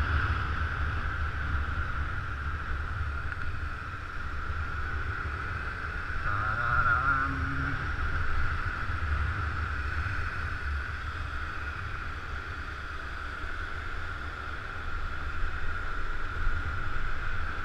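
Motor scooter being ridden, with steady wind buffeting on the microphone over the engine and road rumble. A brief wavering pitched sound comes in about six seconds in and lasts a couple of seconds.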